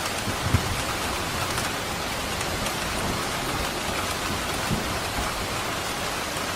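Steady rain falling on surfaces, an even hiss, with a couple of brief low thuds from heavier drops about half a second in and again near 5 seconds.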